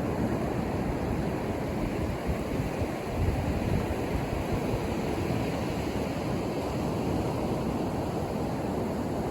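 Ocean surf washing onto a beach: a steady, even rush of noise with gentle swells in loudness.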